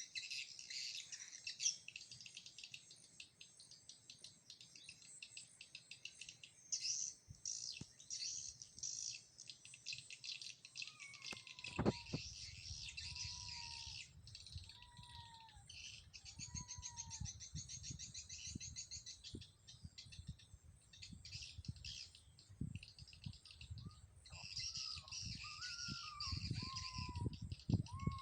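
Dense, rapid high twittering of swiftlet calls. Around the middle and again near the end, a slower series of short falling whistles repeats about once a second, over a low rumble.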